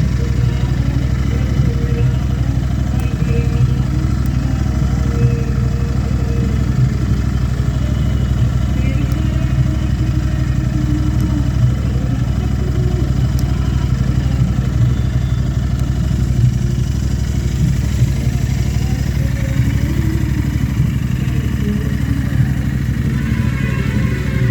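Royal Enfield Interceptor 650's parallel-twin engine idling steadily through an aftermarket stainless steel Gursewak exhaust with its dB killer removed.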